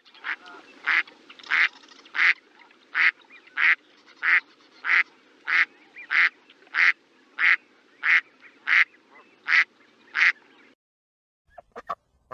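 Duck quacking in a steady series of about sixteen short quacks, roughly three every two seconds, stopping shortly before the end. A few brief clicks follow near the end.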